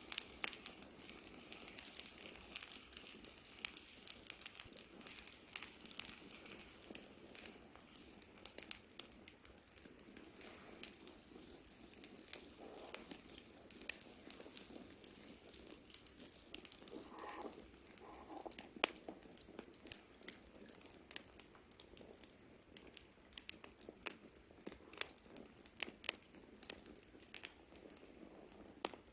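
Wood campfire crackling, with frequent irregular sharp pops and snaps over a soft hiss.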